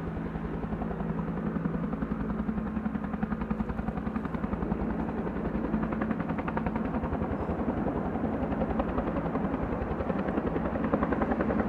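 Logging helicopter's rotor beating in a rapid, even chop over a steady low engine hum, growing a little louder near the end.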